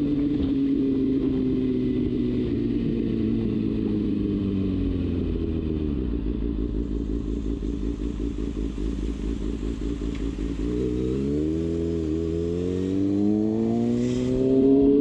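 Kawasaki Ninja ZX-6R's inline-four engine heard while riding. The revs fall off for about six seconds, sit low and pulsing for a few seconds, then climb again as the bike accelerates, with a brief dip in pitch partway through, like a gear change.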